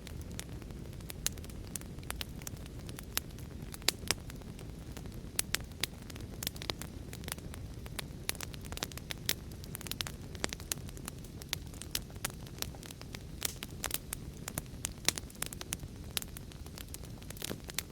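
Fire crackling: frequent irregular sharp pops and snaps over a steady low rumble of burning.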